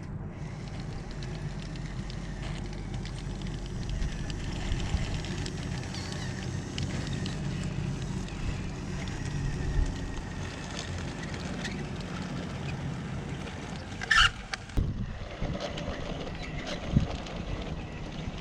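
Wind buffeting the microphone, a steady low rumble, with a brief sharp noise about fourteen seconds in.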